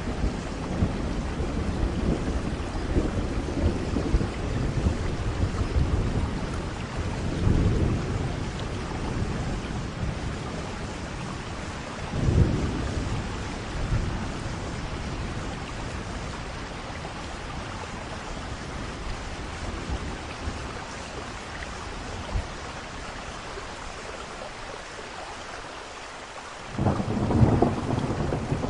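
Thunderstorm: steady rain with rolling thunder rumbling in low swells several times. A louder rumble of thunder comes in suddenly near the end.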